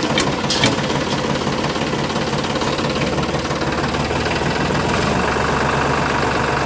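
Small motor of a homemade miniature tractor running steadily under load, with a fast, even rattle over a low hum.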